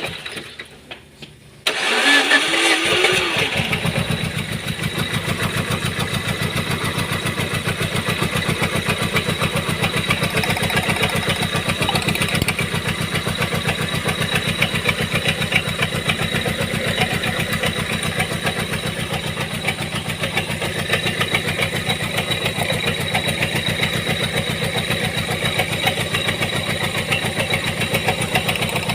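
Proton Saga BLM engine starts about two seconds in, then idles with an even, regular pulsing beat: the odd engine noise of an engine the owner says has lost pressure (compression).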